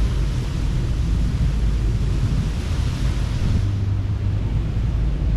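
Ocean surf washing on a beach, with heavy wind buffeting the microphone as a deep rumble. The hiss of the wash drops away about two-thirds of the way through.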